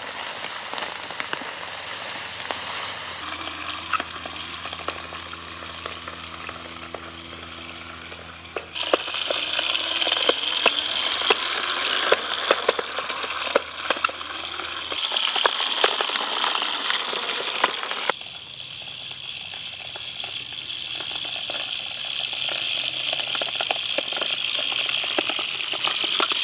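Food plot seed being spread over freshly tilled ground: a steady crackling hiss full of small ticks. Its loudness steps up or down abruptly a few times.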